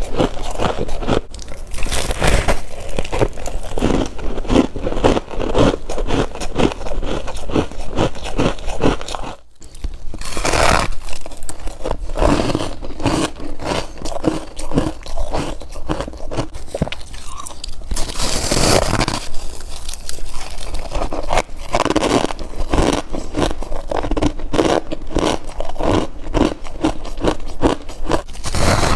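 Freezer frost being bitten and chewed close to the microphone: dense, continuous crunching, with a brief pause about nine seconds in.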